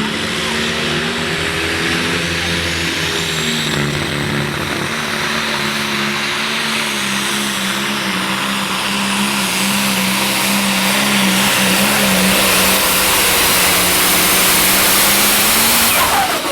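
Turbocharged diesel engine of a Case super/pro stock pulling tractor at full throttle during a pull. It holds a fairly steady pitch under a harsh hiss, grows louder toward the end, then cuts off suddenly.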